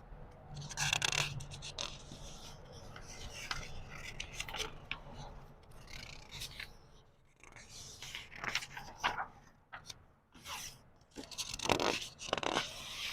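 Paper pages of a book being turned slowly by hand: a series of dry rustling, crinkling swishes, the loudest about a second in and near the end.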